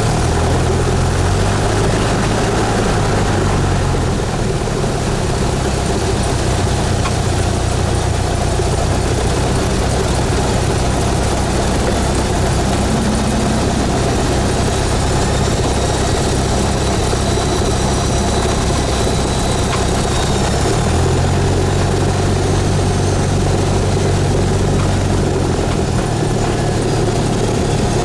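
Cessna 172S's four-cylinder Lycoming engine and propeller running steadily. The engine note drops slightly about four seconds in and rises again around twenty-one seconds.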